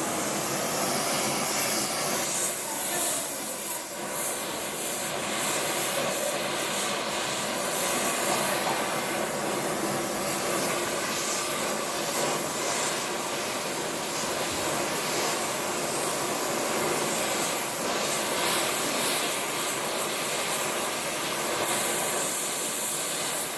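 Loud, steady machine noise with a hiss from metalworking equipment used in repairing a steel deer stand.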